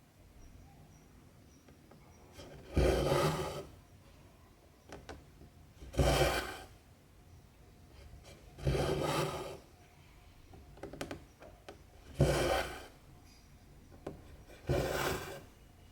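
Cotton embroidery thread pulled through 14-count cross-stitch fabric, each pull a short rasp, five times about every three seconds. Small clicks of the needle piercing the fabric fall in between.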